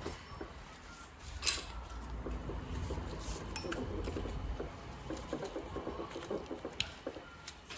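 Light metallic clinks and taps of hands and tools working on a diesel engine's timing end while a new timing belt is fitted, with one sharper clink about a second and a half in.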